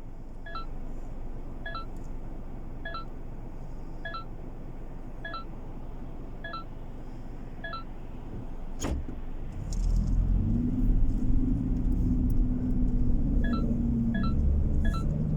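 Car cabin: a regular high tick about every 1.2 s over a low engine and road rumble. A sharp click comes about 9 s in, then the rumble grows louder with the engine note rising as the car pulls away, and faster ticking starts near the end.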